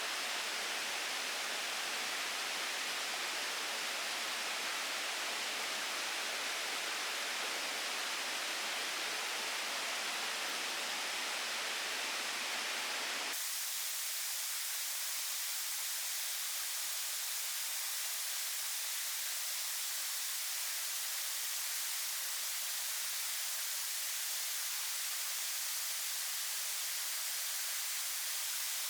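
Steady, even rushing hiss. About thirteen seconds in it changes abruptly to a thinner, hissier sound with the low end gone.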